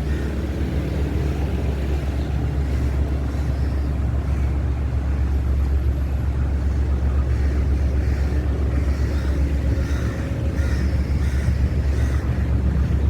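Train in motion: a steady, loud low rumble with a constant rush of wind noise.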